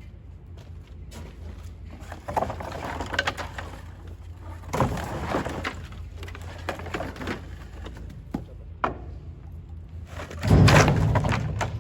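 Remodeling debris such as tile, brick and wood being tossed into a trailer: repeated clattering knocks and crashes in bunches, the loudest crash near the end, over a steady low rumble.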